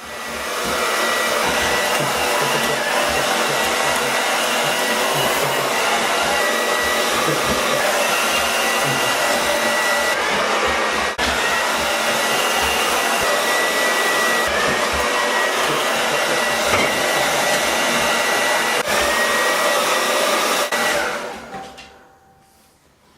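Hair dryer blowing steadily, with a faint high whine in its rush of air. It is switched off and winds down near the end.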